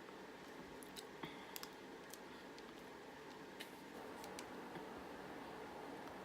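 Faint chewing of a sticky caramel-and-peanut chocolate bar: scattered small, sharp mouth clicks over low room noise.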